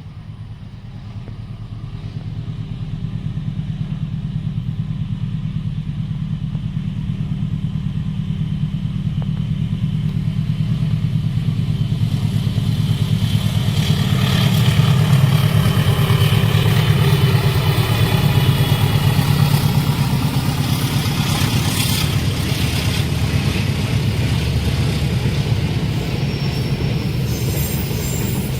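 Diesel-hauled passenger train approaching and passing a level crossing. The locomotive's low engine rumble grows louder to a peak about halfway through, with wheel and rail noise joining and a few sharp clacks near the three-quarter mark.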